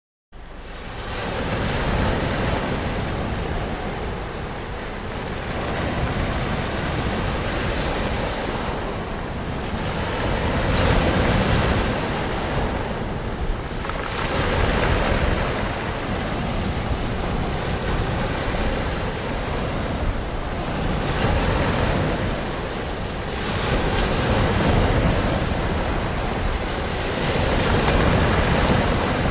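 Ocean surf: waves breaking and washing in a continuous roar that swells and ebbs every few seconds. It starts abruptly just after a brief moment of silence.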